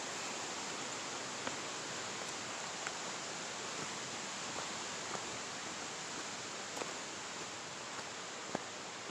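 Steady rushing of a waterfall, with a few faint clicks over it.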